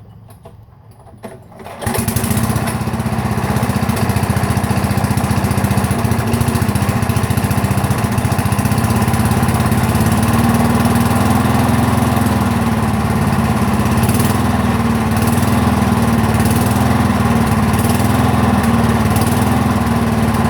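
A 1984 Craftsman 22-inch lawn mower's small engine starts about two seconds in and then runs steadily.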